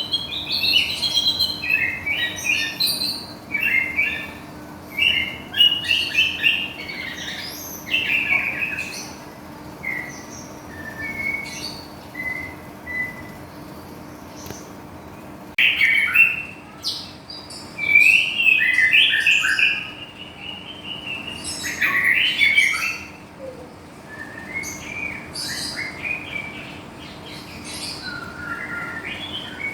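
White-rumped shama (Medan murai batu) singing a varied song of quick, rich phrases. In the middle the song thins to short, spaced whistles, then full phrases resume.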